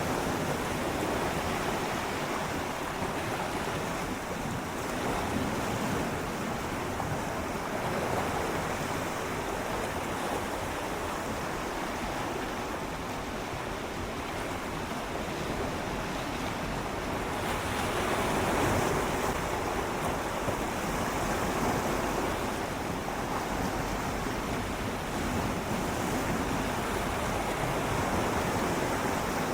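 Gentle sea waves swirling and lapping against shoreline rocks in a continuous wash that swells and eases, one surge a little stronger about two-thirds of the way in, with some wind on the microphone.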